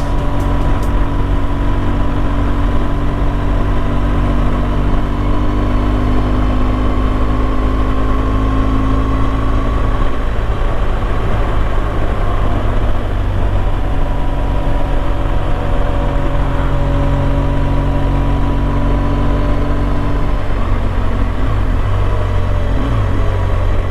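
BMW R1200GS Adventure's boxer-twin engine running steadily under way, heard through a helmet-mounted microphone with wind and road noise. The engine note shifts briefly about ten seconds in and again near the end.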